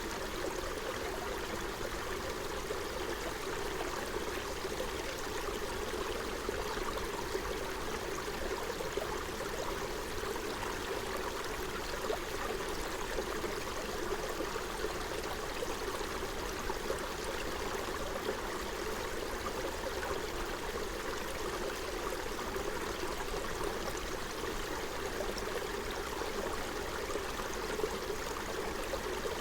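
Forest stream flowing over rocks: a steady babble and gurgle of running water.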